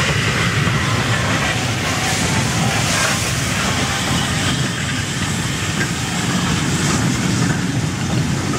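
Steam-hauled train passing at close range: a steady, loud rumble of locomotive and carriage wheels running over the rails.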